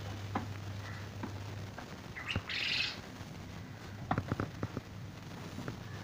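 A bird calls once, briefly and high-pitched, a little before the middle. A steady low hum runs under the first couple of seconds, and a few sharp clicks follow about two-thirds of the way through.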